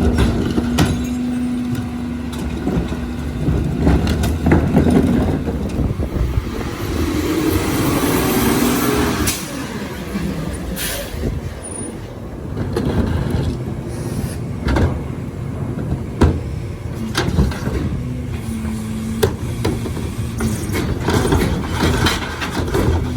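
Leach 2R-III rear-loader recycling truck on a CNG Crane Carrier chassis working: the engine running with a held hydraulic whine, repeated metallic clanks and knocks from carts and the loader, and short hisses of air.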